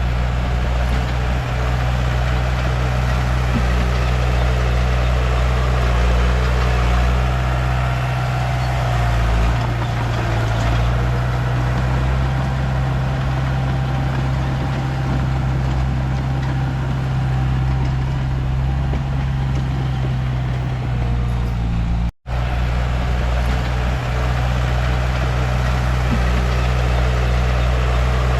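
Diesel engine of a Komatsu D31P bulldozer running steadily with a deep, even drone; the sound breaks off for an instant about 22 seconds in.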